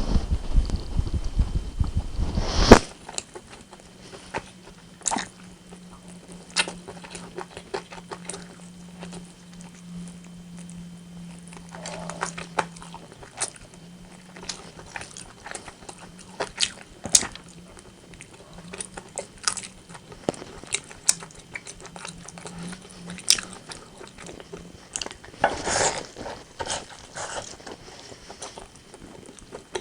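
Close-miked eating of rotisserie chicken: chewing and biting with crisp clicking mouth sounds. The sounds are loud and dense for the first few seconds and end in one sharp click, then come as scattered clicks over a low steady hum, with another dense cluster near the end.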